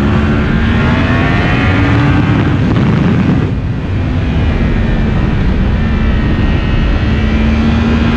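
Yamaha MT-10's crossplane inline-four engine, fitted with an Akrapovic exhaust insert, pulling under load on a ride: the pitch climbs early on, dips briefly about three and a half seconds in as the throttle eases or a gear is changed, then holds steady.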